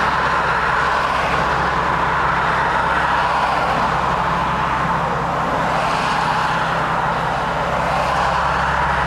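2009 Infiniti G37S's 3.7-litre V6 idling steadily through an aftermarket MXP exhaust with Berk test pipes, heard from inside the car. Road noise from surrounding traffic swells and fades over it.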